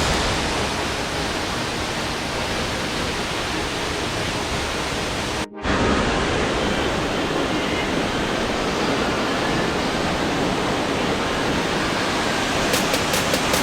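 Waterfall: a steady rush of falling water, with a brief break about five and a half seconds in.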